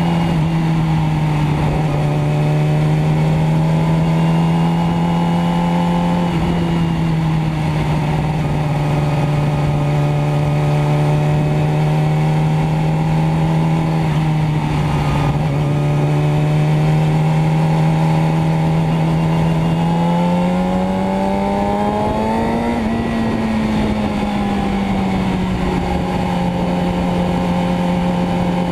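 Motorcycle engine running at a steady speed with a constant hum. About 20 seconds in the pitch climbs as it speeds up, then it eases back to a steady pitch.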